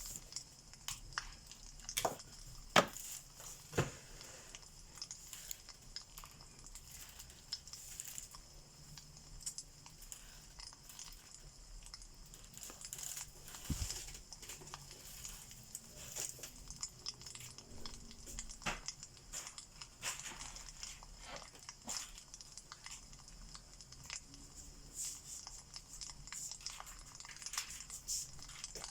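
Wood fire crackling, with irregular pops and snaps over a steady hiss.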